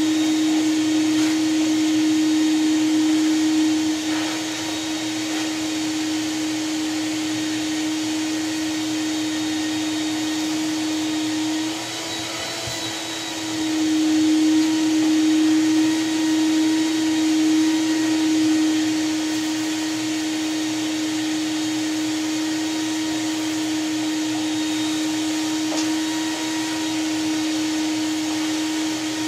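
Vacuum cleaner running steadily, a constant motor hum over airflow hiss, its level dipping briefly about four seconds in and again about twelve seconds in.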